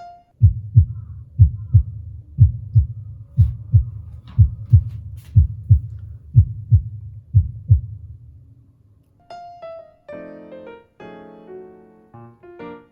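Heartbeat sound effect: loud paired low thumps in a lub-dub rhythm, about one beat a second, lasting about seven seconds, then piano background music comes back in.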